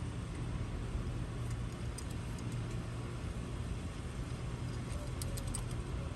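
A steady low mechanical hum over a background hiss, with a few faint light clicks about five seconds in.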